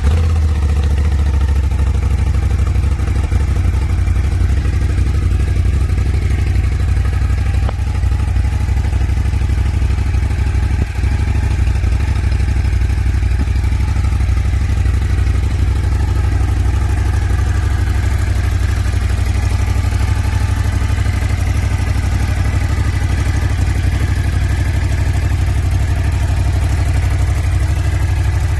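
2019 Ducati Scrambler 1100 Sport's air-cooled L-twin idling steadily through its stock exhaust.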